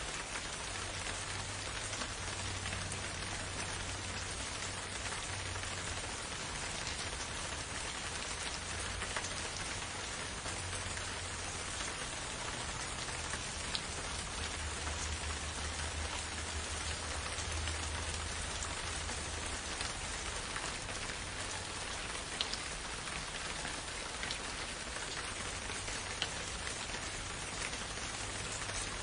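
Steady, gentle rain falling, with scattered single drops ticking sharply through the even hiss.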